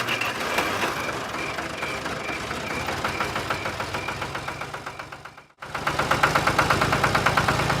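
Engine running with a fast, even knocking pulse over a steady hum. It breaks off abruptly about five and a half seconds in, and a similar engine sound resumes.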